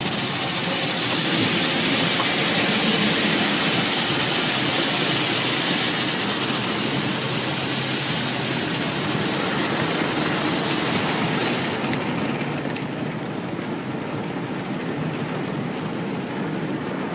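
Automatic car wash running: a steady rush of spraying water and machinery. About twelve seconds in, the hissing top of the sound cuts off suddenly, leaving a duller rush.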